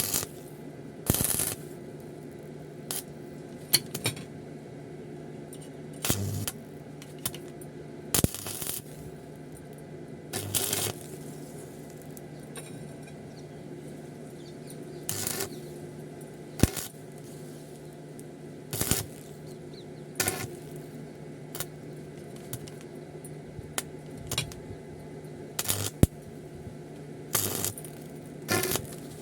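Irregular metallic clinks and knocks of metal pieces being handled and tapped in a welding shop, every second or two, some ringing briefly, over a steady electrical hum.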